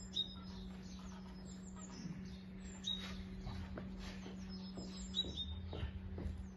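Small songbirds chirping, with repeated short high notes that drop in pitch, over a steady low hum. Light rustles and knocks come from the middle on as a blanket is gathered up and lifted.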